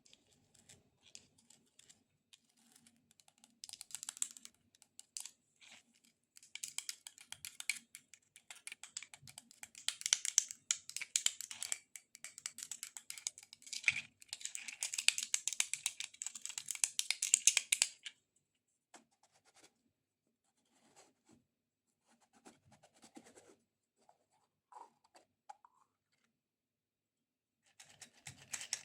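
Long fingernails tapping and scratching rapidly on a decorative dragon egg: dense fast clicking that builds to a long loud run about halfway through, then stops suddenly, leaving only a few scattered taps.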